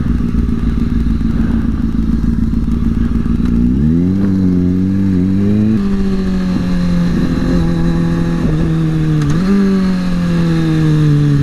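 Kawasaki ZX-6R's inline-four engine under way. It runs steadily, then accelerates about four seconds in and drops in pitch at a gear change. The pitch falls gradually as it slows, rises sharply once more near the nine-second mark, and falls off again.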